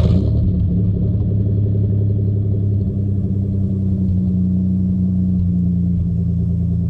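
Holden VP Commodore's engine catching at the very start, then running steadily with a deep, even note.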